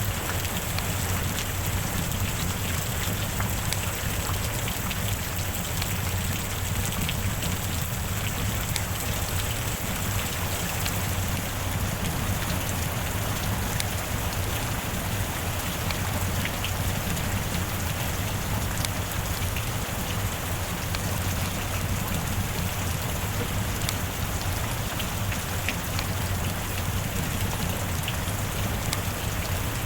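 Steady rain falling, an even hiss with scattered sharp drop ticks and a low rumble underneath.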